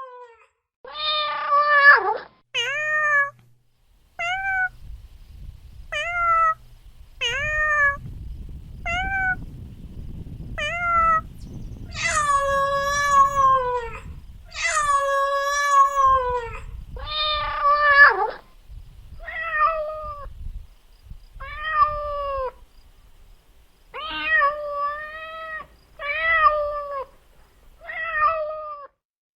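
Domestic cat meowing over and over: a string of short meows, each dropping in pitch at the end, with two longer, drawn-out meows about halfway through.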